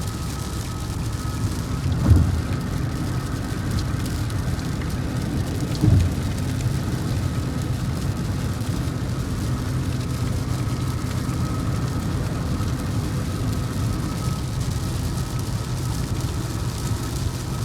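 Road noise inside a moving car: a steady low rumble with a faint high whine, and two short thumps, about two and six seconds in.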